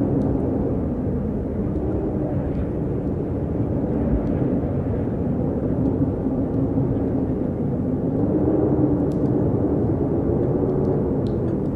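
Wind blowing steadily, a low rush with a faint wavering howl through it, and a few faint ticks near the end.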